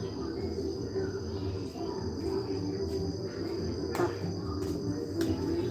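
Crickets trilling steadily over a low background rumble, with two sharp pops: one about four seconds in and another a second later.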